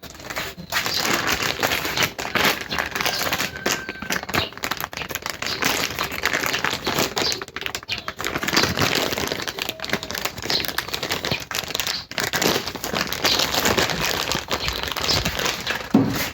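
Packaging crinkling and rustling as it is handled and unwrapped, a dense irregular crackle that goes on throughout.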